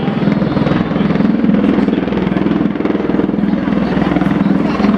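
Bell Boeing MV-22 Osprey tiltrotor flying, its big proprotors giving a loud, steady, rapid low throb.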